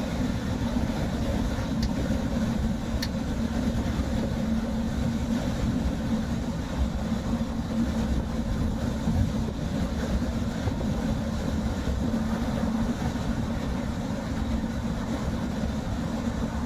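Steady road and engine noise heard inside a moving car's cabin: a low rumble with a steady hum. A couple of faint ticks come about two and three seconds in.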